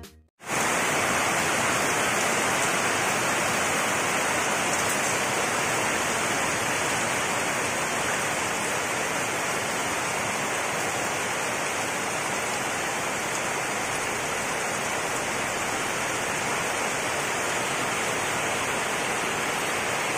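Heavy rain pouring steadily onto a wet concrete yard and potted plants: a dense, even hiss that holds at one level throughout.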